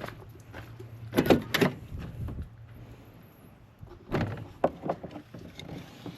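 Handling noise at a pickup truck's door: a cluster of sharp knocks and clacks about a second in, and another group about four seconds in.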